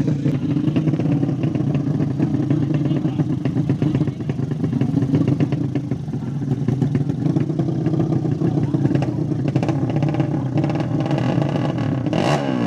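200cc motorcycle engine running steadily at a fast, even beat, with a brief louder swell near the end.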